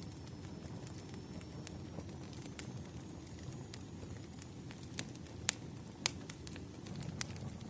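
Wood fire crackling: scattered sharp pops and snaps of burning firewood over a low steady rumble, with two louder pops in the second half.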